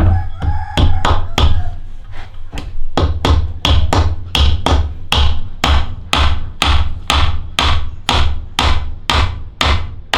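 Hammer striking wood in a steady run of quick blows, about two to three a second, as in nailing timber.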